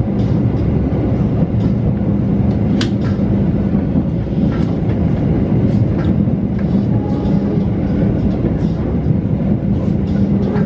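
Steady rumble of a passenger train coach in motion, heard from inside the cabin, with scattered sharp clicks and knocks at irregular intervals.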